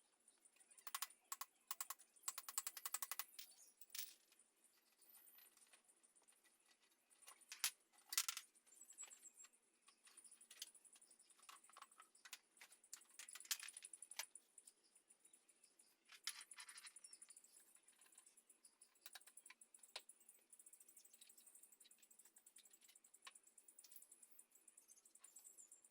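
Faint scattered clicks and metallic clinks of small metal parts and tools being handled, with a short rattle about three seconds in and another near sixteen seconds.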